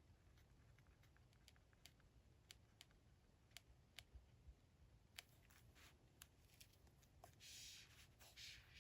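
Faint desk-crafting sounds of paper and stationery being handled: scattered small taps and clicks, then two short papery rasps near the end, like paper being cut or slid.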